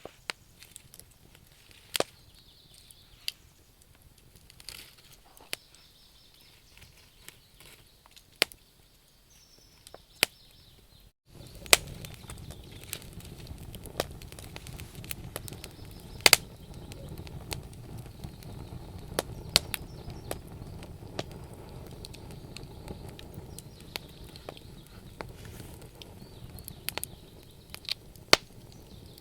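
Wood campfire crackling, with sharp pops at irregular intervals. About eleven seconds in, the sound breaks off for a moment, then the crackling comes back over a steady low rush of flames.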